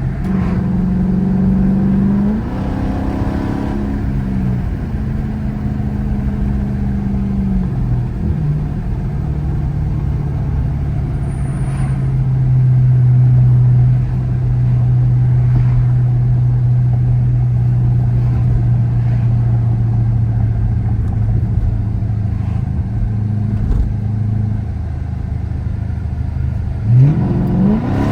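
Car engine running at a steady cruise while driving, its pitch stepping a few times early on and rising quickly in a short rev near the end.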